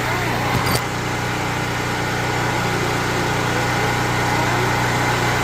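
An engine idling steadily, with a couple of short clicks a little under a second in.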